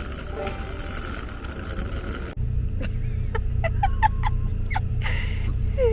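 Background music, cut off about two seconds in by the steady low rumble of a moving Amtrak passenger car heard from inside, with scattered clicks and short high squeaks over it.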